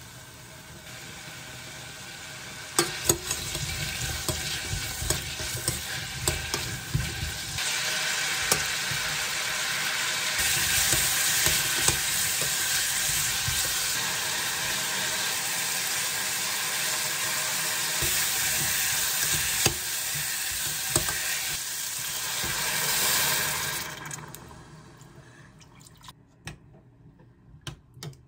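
Cubed radish and beef sizzling in a stainless steel saucepan as they are stir-fried for beef radish soup, with a spoon clicking against the pot now and then. Near the end the sizzle suddenly dies away as water goes into the pan for the broth.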